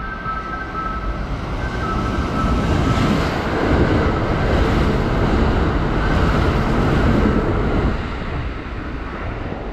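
Kintetsu limited express electric train running through the station without stopping: its rush of wheels and motors swells as it nears, is loudest as the cars pass close by, and drops away about 8 seconds in. A two-tone electronic warning signal repeats through the first few seconds, before the train reaches the platform.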